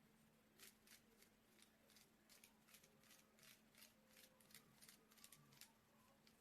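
Faint, quick dabbing strokes of a paintbrush loading paint onto bubble wrap, a few irregular strokes a second, over a faint steady hum.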